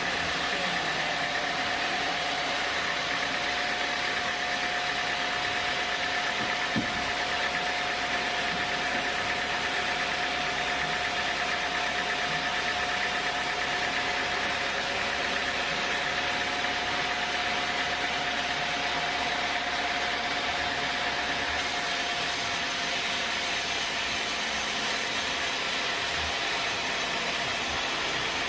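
Sawmill machinery running steadily: a constant mechanical noise with an even whine, and a single brief knock about seven seconds in.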